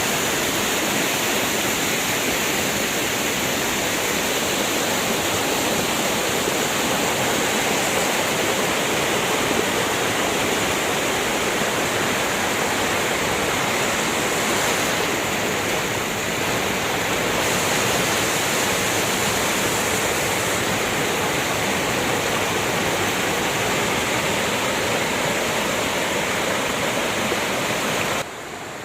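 Fast-flowing floodwater rushing steadily through a river pool swollen by rain and snowmelt. The level drops suddenly near the end.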